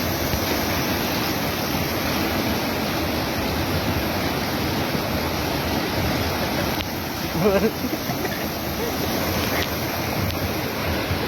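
Steady rush of a swollen, flood-level river's fast-flowing water.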